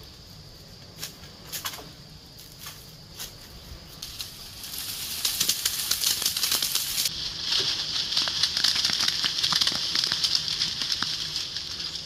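Dense rustling and crackling of leaves and twigs, setting in about four to five seconds in and continuing loudly, over a steady high buzz that grows stronger toward the middle.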